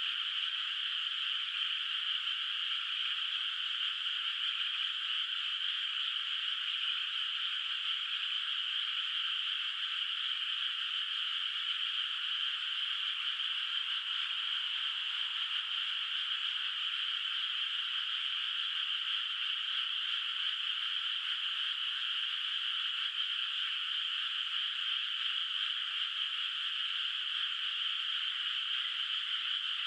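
Dense chorus of many frogs calling at once from a flooded rice paddy. The calls blend into one steady, high-pitched din with no single call standing out.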